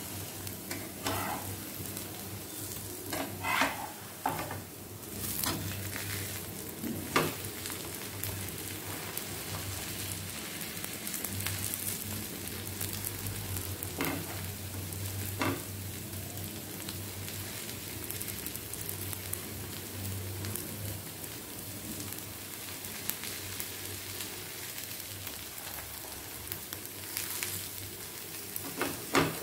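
Folded dosa sizzling steadily on a hot nonstick tawa as it crisps and browns. A spatula presses and scrapes it several times, mostly in the first half and again near the end.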